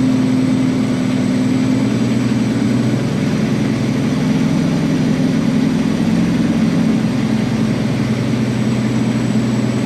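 Diesel engine of a Peterbilt semi truck running steadily at low revs, a low drone that shifts slightly in pitch in the middle.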